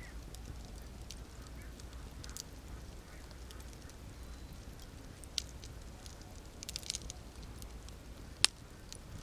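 Wood fire crackling: scattered small snaps and pops over a low steady rumble, with a quick run of snaps about seven seconds in and one sharp, loud pop near the end.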